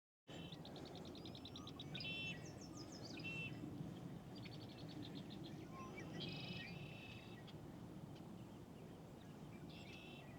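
Songbirds singing faintly, several short songs of quick repeated high notes, over a steady outdoor hush.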